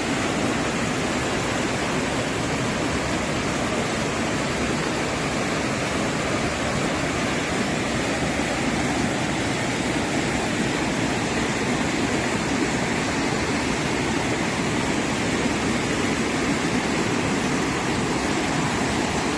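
Fast-flowing floodwater rushing, a steady, unbroken noise.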